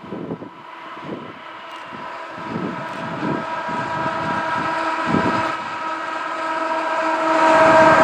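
Diesel locomotive horn sounding a steady multi-note chord, growing steadily louder as the train approaches, over irregular low rumbling.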